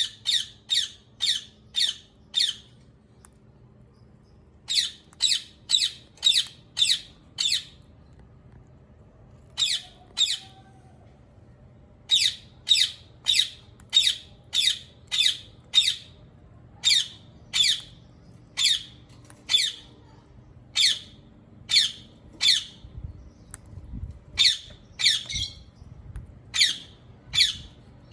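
Ringneck parakeet (rose-ringed parakeet) calling: short, harsh, high-pitched calls about three a second, in runs of several with pauses of a second or more between runs.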